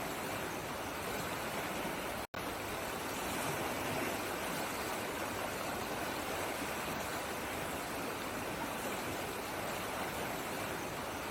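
Flowing water, like a stream over rocks, making a steady, even rush. The sound cuts out for an instant about two seconds in, then carries on unchanged.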